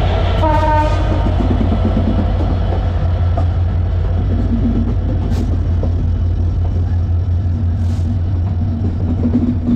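Diesel-hauled express train running past at a station: a loud, steady low rumble, with a short pitched tone just after the start and a couple of faint ticks later.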